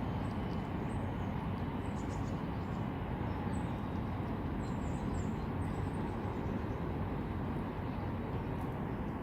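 Outdoor ambience: a steady low rumble, with small birds giving short high chirps now and then.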